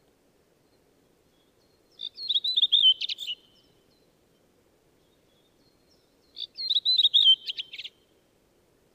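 Redwing singing two short phrases about four seconds apart. Each is a quick run of high, falling whistled notes ending in a scratchy twitter.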